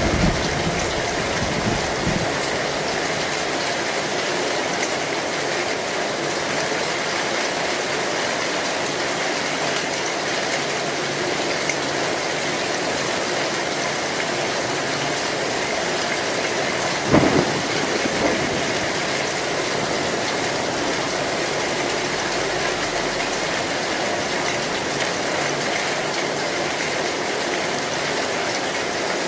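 Heavy rain falling steadily on an old zinc sheet-metal roof, with one brief loud thump about seventeen seconds in.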